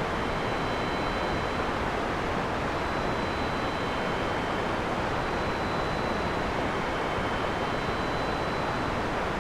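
Heavy rain falling steadily, an even hiss with no thunderclaps, under two faint steady high tones.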